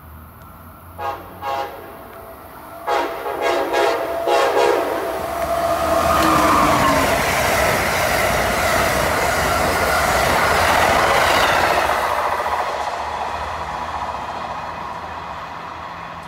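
An Amtrak train sounds its horn in a string of short blasts over the first few seconds, then runs through the station at speed. The passing train is a loud rush of wheel and air noise that swells and then slowly fades.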